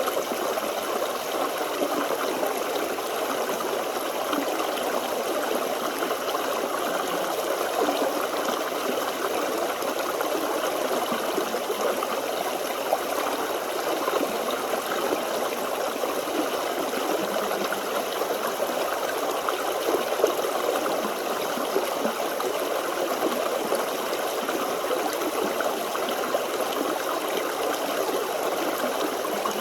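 Small forest stream flowing over stones: a steady babbling rush of water.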